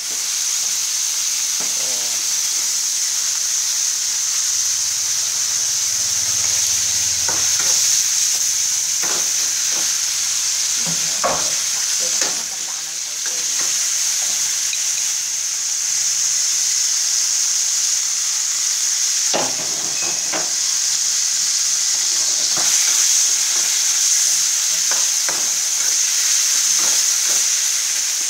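Sliced beef sizzling in a metal wok, a steady high hiss, with a metal spatula scraping and knocking against the wok now and then as the meat is stirred.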